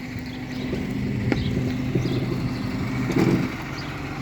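Tow truck engine running steadily, its hum swelling a little for a few seconds, with one sharp click about a second in.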